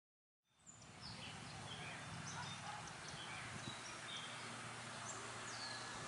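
Outdoor ambience of small birds chirping, scattered short high calls over a steady low hum, starting about half a second in.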